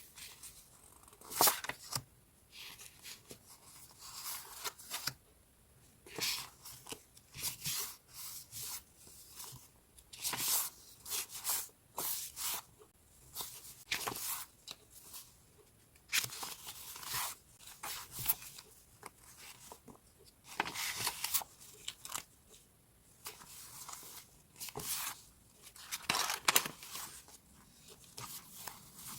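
Sheets of decorative scrapbooking paper being handled, giving a quick, irregular run of crisp rustling and crinkling strokes one after another.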